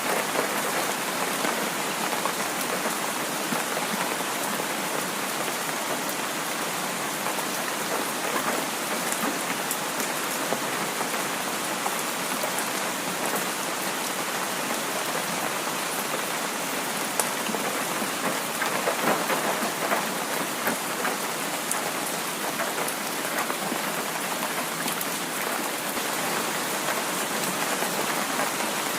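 Heavy rain falling steadily, an even dense hiss of drops with many fine ticks of individual drops striking.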